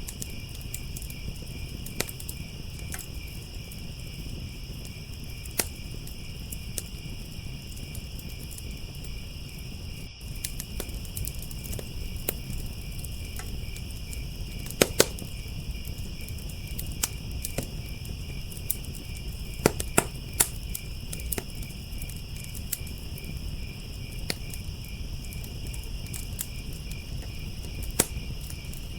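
Crickets chirping in a continuous high trill over a wood fire crackling with scattered sharp pops. The loudest pops come in quick clusters about halfway through and again a few seconds later, over a low steady rumble.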